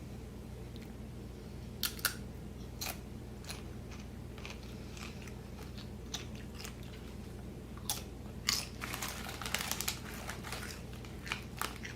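A person crunching and chewing Nacho Cheese Doritos tortilla chips close to the microphone: a few sharp crunches about two seconds in, then a denser run of crunching from about eight seconds on. A steady low hum runs underneath.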